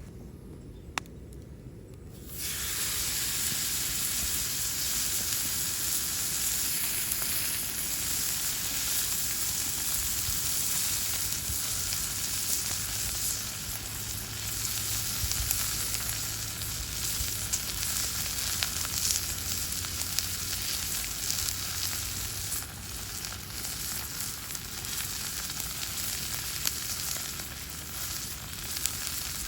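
Steak sizzling over a wood fire: a steady frying hiss with small pops that sets in about two seconds in.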